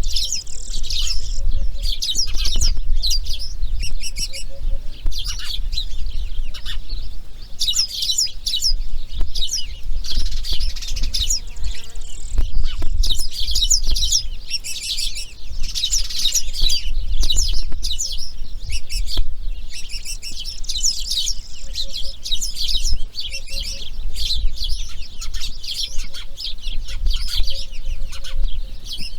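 Many birds chirping in a dense, continuous stream of rapid high-pitched calls, over a steady low rumble.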